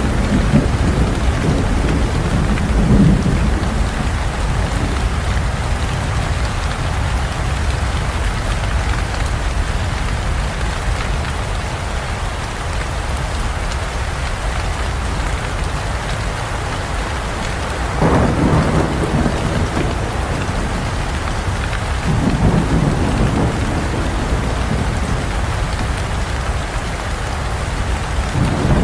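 Steady heavy rain with thunder rolling through it. There are low rumbles in the first few seconds, a sharper clap about 18 seconds in, a further rumble shortly after, and another building near the end.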